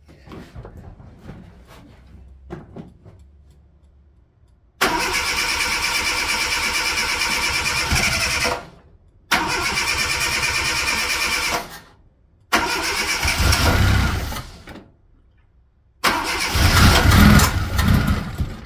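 Zastava 1100p's four-cylinder engine turned over by its starter motor in four attempts of two to four seconds each, a first start after a long standstill. The first two crank evenly, the last two come out rougher and louder, and the engine does not keep running; the owner then suspects a wrongly refitted distributor cap.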